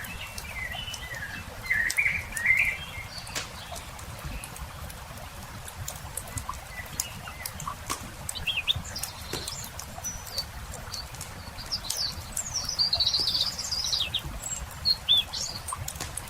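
Songbirds singing in short warbling phrases, one in the first few seconds and a higher one from about twelve seconds in, over the scattered sharp pops and crackles of a campfire and a low steady rumble.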